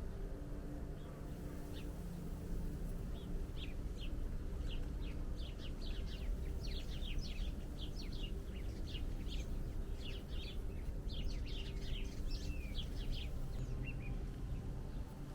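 Small birds chirping: a quick, uneven series of short, high chirps that thickens through the middle and thins out near the end, over a steady low rumble and hum.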